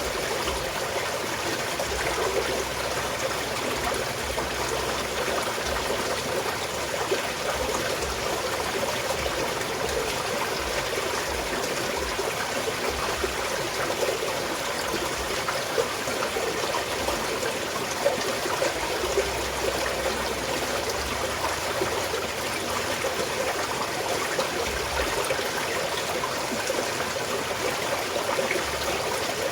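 Small mountain stream flowing and trickling steadily over rocks, with a steady rush of water and small splashes.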